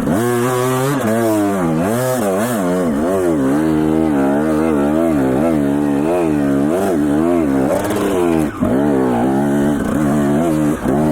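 Dirt bike engine revving up and down as it is ridden, its pitch rising and falling about once a second, with a short dip about eight and a half seconds in.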